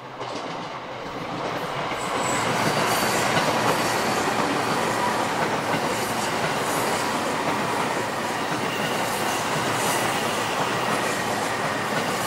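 Electric train passing through a tight curve, its wheels clattering over the rail joints with a thin squeal from the wheels on the curve. The sound builds over the first two seconds, then holds loud and steady.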